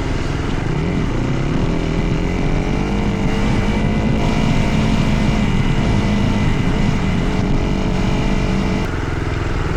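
Dirt bike engine running while being ridden, its pitch rising and falling as the throttle is worked, then easing off near the end.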